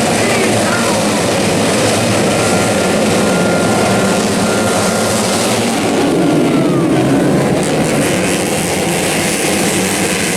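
Motocross dirt-bike engines running hard, a loud continuous racket, with one engine's pitch dropping about seven seconds in.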